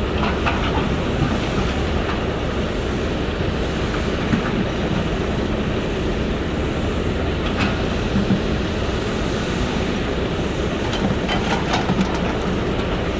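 Heavy road-construction machinery running: a steady deep rumble with a few brief clinks and knocks.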